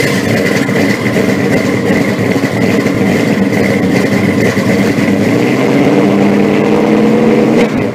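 Loud car engine running steadily, with a steady high whine over its rumble.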